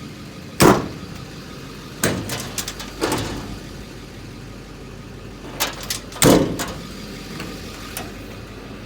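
Metal compartment doors and latches on a utility service body being worked: a sharp bang under a second in, a few clattering knocks around two to three seconds, then more knocks and the loudest bang a little past the middle. A steady low engine hum runs underneath.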